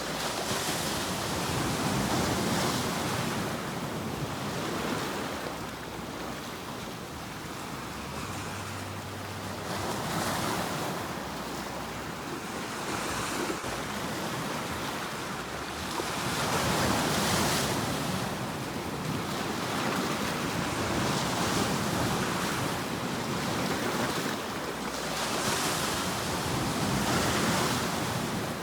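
Ocean waves breaking and washing on a shore, the surf swelling and fading in slow surges every few seconds.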